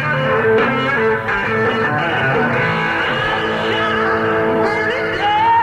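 Live rock band playing, electric guitar prominent.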